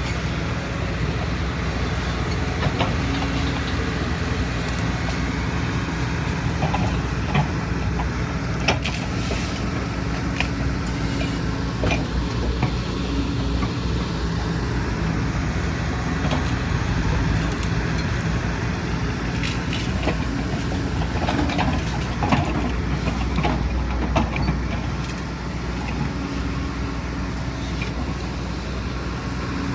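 Excavator's diesel engine running steadily under work, with scattered knocks and clatters throughout.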